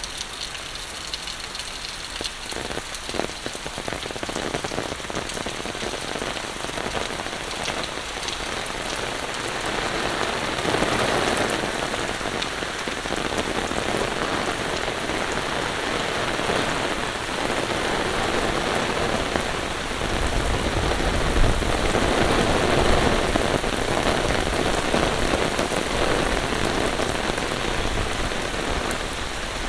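Heavy monsoon rain falling steadily, getting louder over the first ten seconds and heavier again about two-thirds of the way in.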